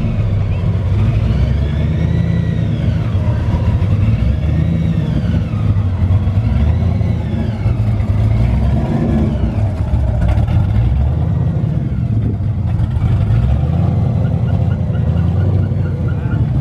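A car engine and exhaust running with a steady deep rumble, as when driving. Fainter high tones rise and fall about every two seconds through the first half.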